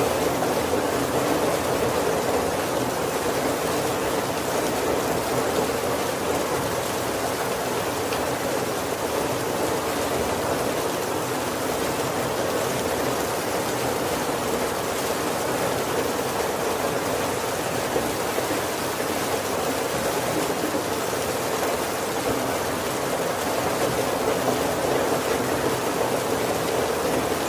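Steady heavy rain falling on a wooden carriage roof, an even patter with no thunder.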